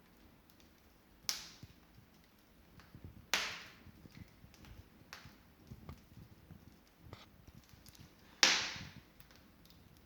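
Wood fire crackling in an open fireplace: three loud pops about a second, three seconds and eight seconds in, among faint small crackles and ticks.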